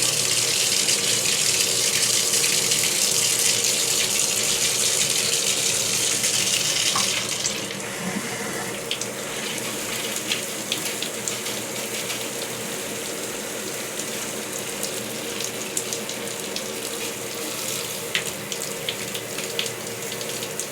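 Water spraying and splashing from a newly fitted shower head in a steady hiss. About seven seconds in the spray grows quieter, and separate drips and splashes come through; the head is not yet working properly, with water escaping from a hole.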